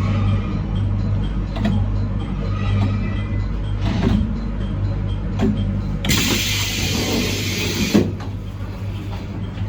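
Train drawing into a station stop, heard from the cab: a steady low hum with a few knocks. About six seconds in comes a two-second hiss of compressed air, which ends in a sharp knock.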